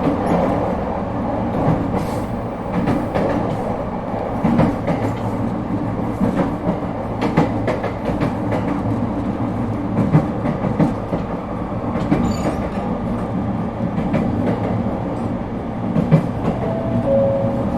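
Onboard running sound of an ET127 series electric multiple unit with Toyo IGBT-VVVF traction equipment: steady rumble and hum of the wheels and running gear, with scattered clicks from the rails. Near the end, two brief high steady tones come in.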